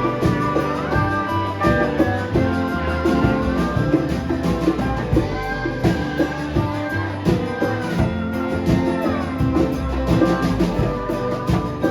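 A live band playing, with guitar prominent and a steady beat.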